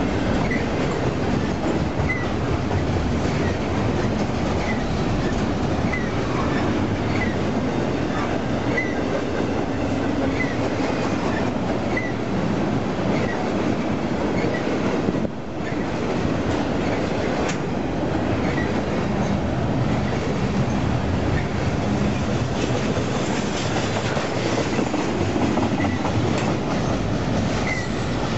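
Double-stack intermodal freight train's well cars rolling past close by: a steady rumble and clatter of steel wheels on rail. Short high squeaks come about once a second through the first half, and the level dips briefly about halfway.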